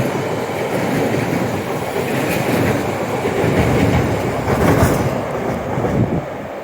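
A train passing close at speed, its wheels clattering over the rail joints. The noise drops off about six seconds in as the train clears.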